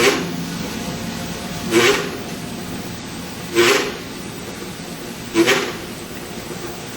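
Elevator car travelling through the hoistway with a brief rushing, scraping noise that comes back about every 1.8 s, four times, each time it passes a floor's magnets. This is the car's noise fault.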